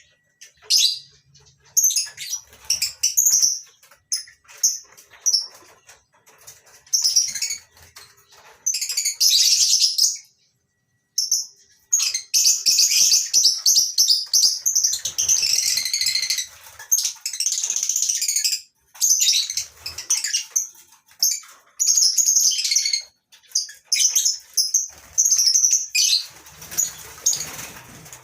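A flock of lovebirds chattering with shrill, high-pitched calls in rapid overlapping bursts, with a brief lull about ten seconds in.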